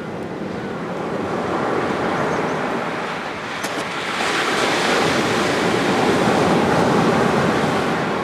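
Sea surf breaking and washing up a sandy beach, swelling twice; the second surge is longer and louder.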